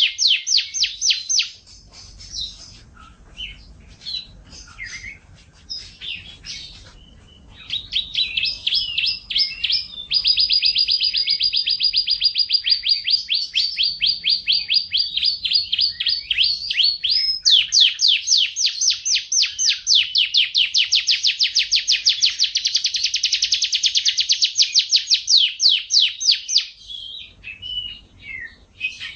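Domestic canary singing: rapid trills of fast repeated high notes. After a short break of scattered notes a few seconds in, it sings long unbroken rolling trills for most of the rest.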